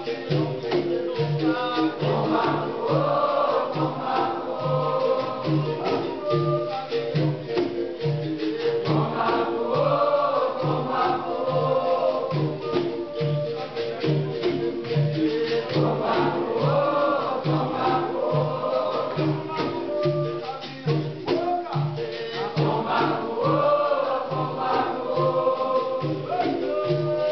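Capoeira Angola roda music: a chorus singing call-and-response phrases over berimbaus, shakers, pandeiro and a steady low drum beat. The chorus phrases come back about every seven seconds.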